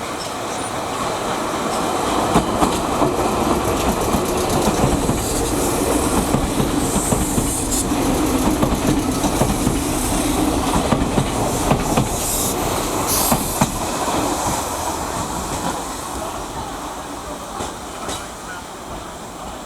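Meitetsu electric train pulling into the station, its wheels clacking over the rail joints, with brief high wheel or brake squeals about halfway through. The noise is loudest in the first half and grows quieter toward the end as the train slows to a stop.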